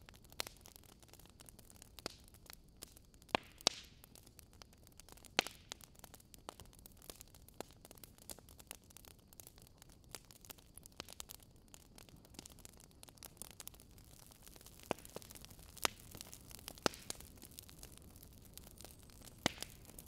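Faint crackling wood fire: a soft steady hiss with irregular small crackles and a few sharper pops.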